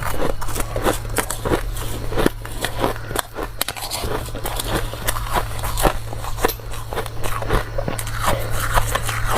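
Hard, dry ice being bitten and chewed, with irregular sharp crunches several times a second.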